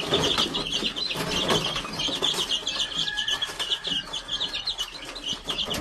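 A brood of young chicks peeping: many rapid, high-pitched chirps overlapping without a break, with scattered short ticks beneath.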